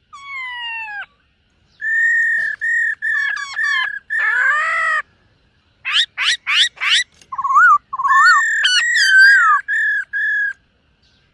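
Black-throated laughingthrush singing: an opening falling whistle, then a run of clear repeated whistled notes, a quick series of rising sweeps about six seconds in, and warbling phrases near the end.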